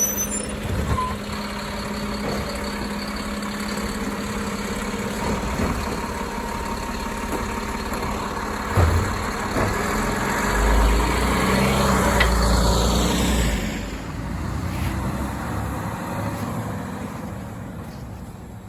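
Autocar ACX Labrie Automizer garbage truck engine running, with a knock about nine seconds in. It revs up hard for a few seconds midway, then fades steadily as the truck pulls away.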